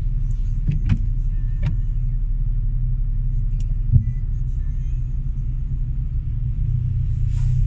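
A car's steady low road rumble while driving, with a few short sharp clicks or knocks over it.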